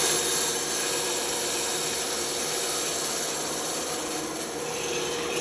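Band saw running steadily with a constant hum while its blade rasps through the workpiece.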